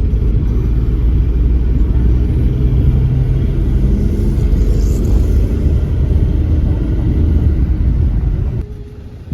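Loud, steady low rumble that drops off suddenly near the end.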